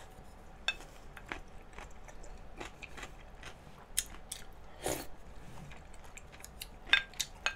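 Close-up eating sounds: a person chewing a spoonful of beef and radish soup, with scattered sharp mouth clicks and smacks, some eight in all, the loudest near the end.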